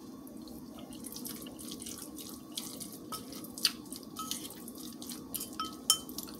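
Close-miked wet chewing and mouth clicks from eating a mouthful of buttered rice with gravy, a scatter of short sharp ticks that thicken after a couple of seconds, over a steady low background hum.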